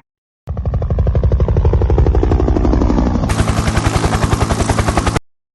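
Helicopter rotor chopping: a fast, even pulsing beat that brightens about three seconds in and cuts off suddenly near the end.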